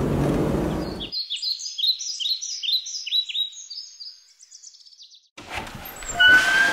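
Birdsong sound effect: a rapid string of short, high, downward-sweeping chirps, about three a second, fading out. It follows a second of rushing noise and gives way to room noise with a short squeak near the end.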